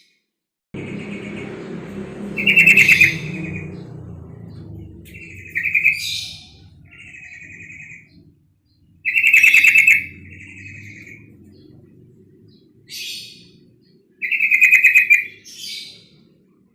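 Female yellow-vented bulbul (trucuk) calling: short bubbling, chattering phrases with four loud bursts a few seconds apart and quieter trills between them. A low rumble sits beneath the calls.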